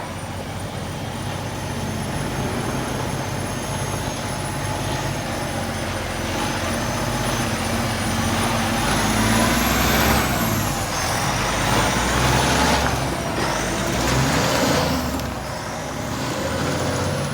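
Heavy truck running, with loud hissing bursts of air over the engine, the longest about nine to eleven seconds in.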